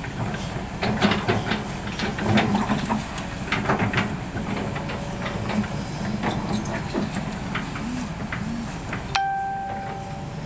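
Tracked excavator's diesel engine running, with many metallic knocks and clanks of the tracks and steel. Near the end a steady high tone sounds for about a second.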